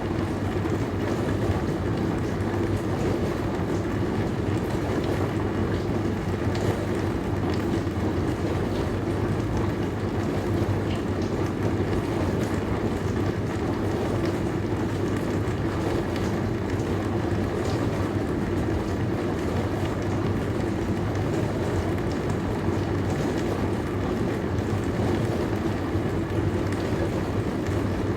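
Dishwasher running mid-cycle: a steady motor hum under the hiss and light spatter of water spraying inside the tub.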